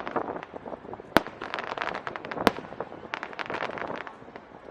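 Aerial fireworks going off: two sharp bangs, about a second in and midway, amid a dense run of rapid crackling pops from bursting shells.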